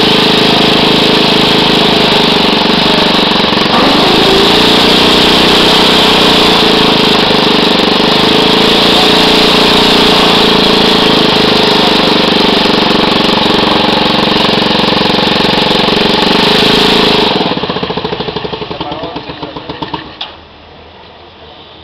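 Small engine of a home-built mini tractor running steadily at speed, then switched off about three-quarters of the way through, its firing slowing into separate pulses before it stops.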